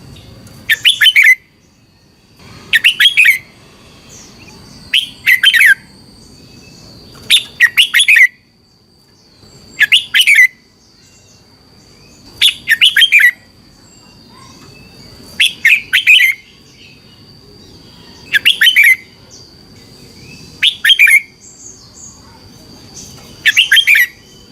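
Red-whiskered bulbul singing short, loud, warbling phrases, one about every two and a half seconds, ten in all. A faint steady high-pitched whine runs underneath.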